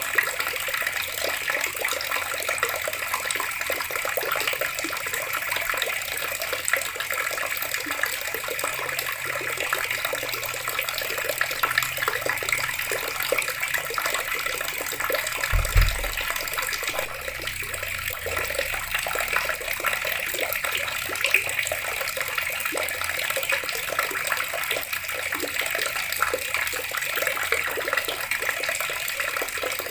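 Water running steadily from a tap and splashing, a constant hiss-like pour. A single brief low thump comes about halfway through.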